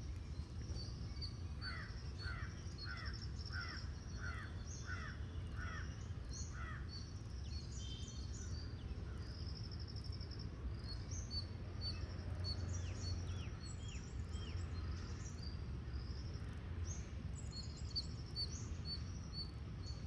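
Outdoor birdsong: one bird repeats a short call about nine times, roughly two a second, over the first half, while high thin chirps go on throughout. A steady low rumble of background noise sits underneath.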